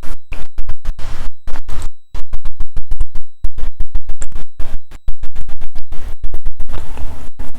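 Loud, irregular crackling and popping distortion from a badly plugged-in microphone, garbling close-up chewing of crunchy chocolate snacks.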